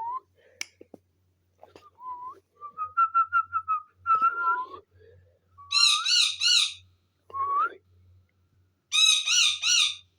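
Pet parrot whistling short phrases: rising notes and quick repeated trills, with two harsher warbling calls about six and nine seconds in.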